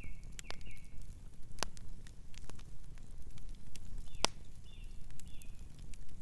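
Wood fire crackling with scattered sharp pops, the loudest about four seconds in, over a low rumble. A distant bird chirps briefly at the start and again a few times after four seconds.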